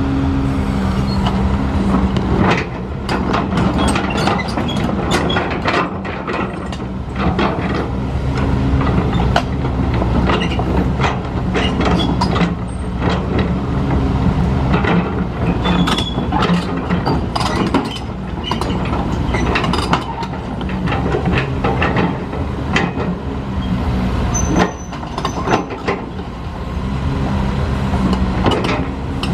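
Heavy diesel construction machinery running steadily, with many sharp metallic clanks and knocks over the engine throughout.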